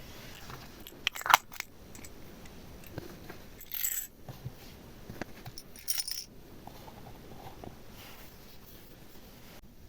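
Small hard objects clicking and clinking together: a quick cluster of sharp clicks about a second in, then two short rattling clatters a couple of seconds apart.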